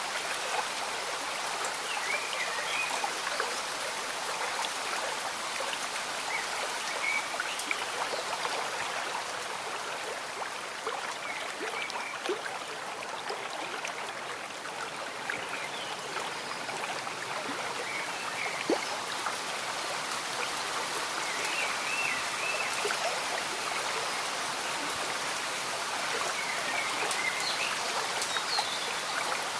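A slow-moving stream bubbling steadily with rain falling and pattering on surfaces, an even, unbroken wash of water sound with many small drips. Faint short chirping calls come through now and then.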